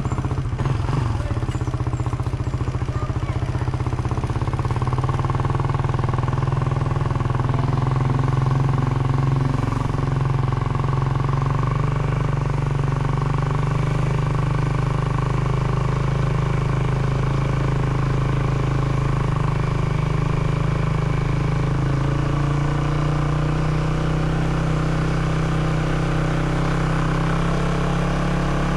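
A vehicle engine running steadily while on the move, at an even, unchanging level.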